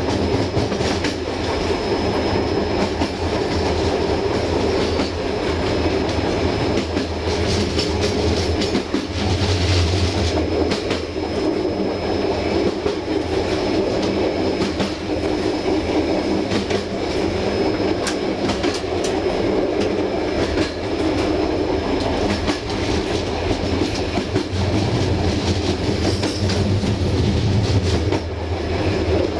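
Passenger train running along the track, heard from the rear of the train: a steady rumble of the coaches with irregular clicks and knocks as the wheels pass over rail joints, and a faint thin high whine.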